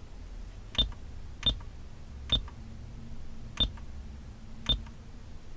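Replacement car radio head unit giving a short, high beep at each button press: five presses, irregularly spaced about a second apart.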